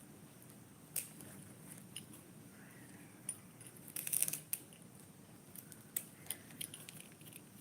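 Faint scattered clicks and short rustles of small objects being handled, with a brief cluster of them about four seconds in.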